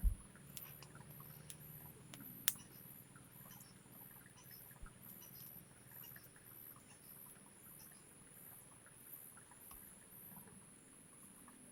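Faint forest ambience: insects chirping steadily in a high, pulsing drone, with scattered small clicks and one sharp click about two and a half seconds in.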